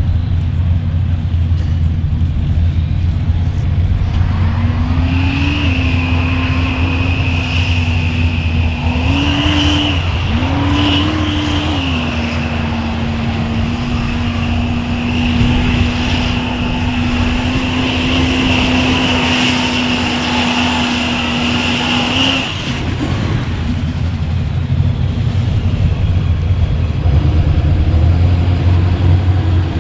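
Mega truck's diesel engine running hard with a high, steady turbo whistle. The engine pitch climbs several times, then holds for several seconds before the whistle and revs drop away a little past two-thirds of the way through.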